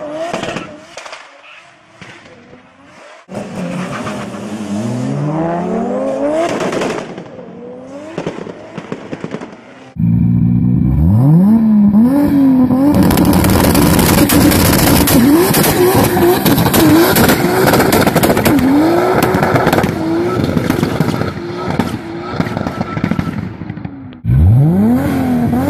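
Turbocharged Toyota Supra Mk4 straight-six revving hard. First comes a quieter pull that rises up through the revs. About ten seconds in a much louder engine starts and sweeps up sharply, then rises and falls at high revs over and over, with rapid exhaust crackles and pops, while the tyres spin in a smoky burnout.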